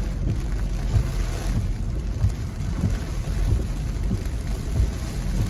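Rain and typhoon wind on a moving taxi, heard from inside the cabin: a steady low rumble with irregular dull thumps and a hiss of rain.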